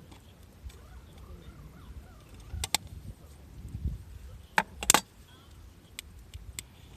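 Wood campfire crackling: scattered sharp pops and clicks, with a louder cluster of snaps a little before the five-second mark.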